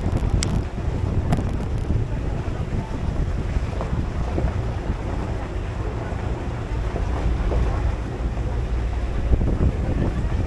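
Wind buffeting the microphone over the low rumble of a moving tour shuttle, with a couple of light clicks in the first second or so.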